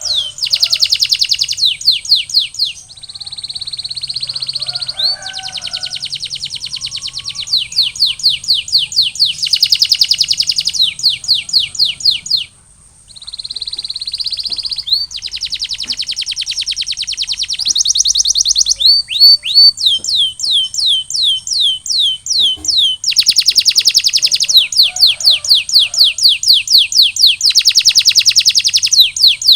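Canary singing continuously: trains of quick falling whistled notes alternating with very fast rolling trills. The song breaks off briefly about twelve seconds in.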